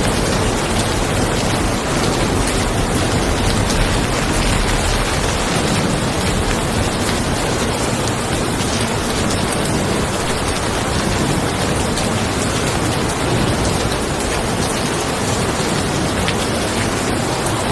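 Steady heavy rain pattering on a car's roof and windows, with a continuous low rumble of distant thunder underneath.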